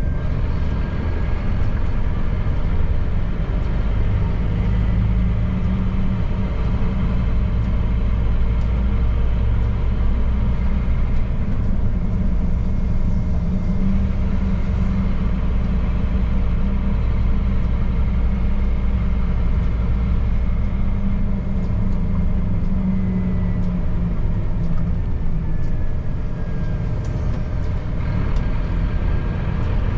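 Scania P310 truck's five-cylinder diesel engine running steadily under way, a continuous low drone whose pitch shifts slightly now and then, with a faint high whine coming and going.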